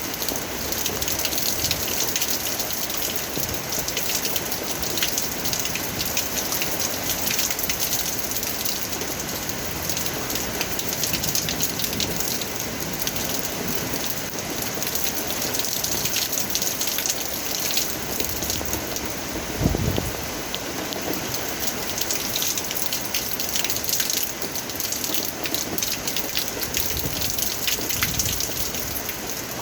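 Steady rain falling, with a dense patter of drops striking a surface. A single low thump sounds about two-thirds of the way through.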